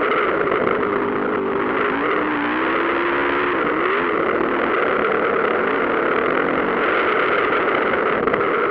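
Motocross bikes racing on the dirt track, their engines running hard with the pitch rising and falling as riders throttle on and off.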